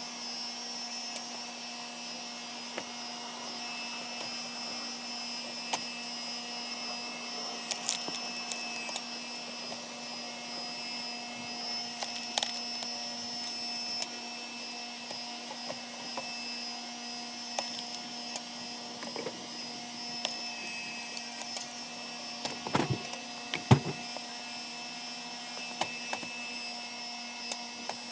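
Engine-driven hydraulic log splitter running with a steady whine, with scattered sharp cracks of wood splitting; the loudest cracks come late on.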